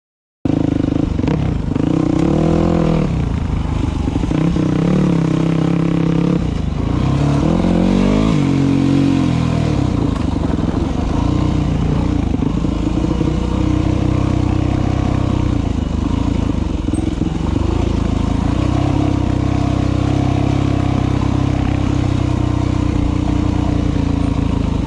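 Dirt bike engine running while being ridden, its revs rising and falling a few times in the first ten seconds, then holding more steadily. A brief dropout to silence right at the start.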